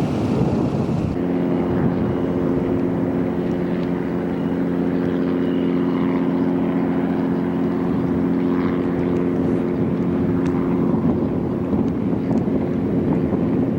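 A steady engine drone that comes in about a second in and fades away near the end, over wind buffeting the microphone.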